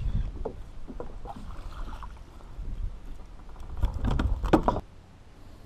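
Wind rumbling on the microphone and water slapping against a plastic kayak hull while a hooked fish is played on a light spinning rod, with a burst of knocks and splashing about four seconds in. Just before five seconds the rumble drops away suddenly and it goes much quieter.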